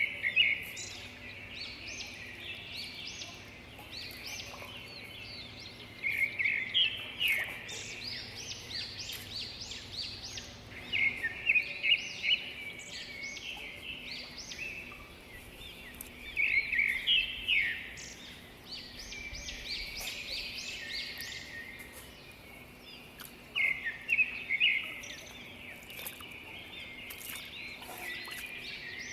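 A songbird singing: a quick burst of high chirps repeated every five seconds or so, over a faint steady background.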